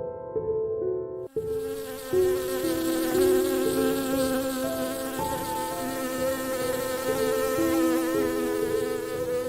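A flying insect buzzing, starting suddenly about a second in and wavering slightly, over soft background music of held notes.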